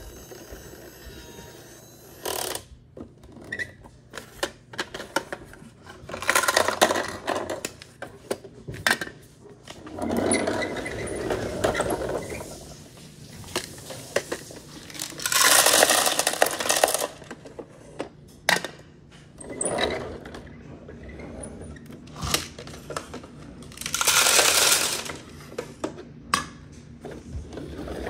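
Toy garbage trucks being handled: hard plastic clicking, clattering and scraping, broken by four longer rushing, noisy bursts of a second or two each.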